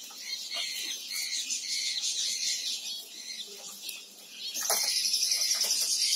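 Zebra finches calling: a string of short, high chirps that gets louder and busier about four and a half seconds in.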